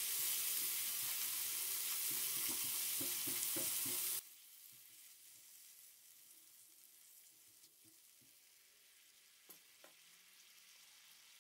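Onion-tomato spice paste sizzling in hot oil in a pan while it is stirred with a spatula, the masala being fried down until the oil separates. About four seconds in the sizzle cuts off suddenly, leaving only faint stirring with a couple of small clicks.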